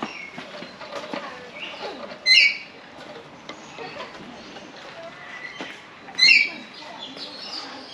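A parrot squawking twice, two short loud calls about four seconds apart, over faint background voices.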